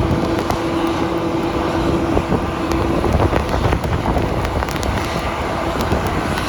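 A motor vehicle running, with low rumble and wind noise; a steady hum stops about three seconds in.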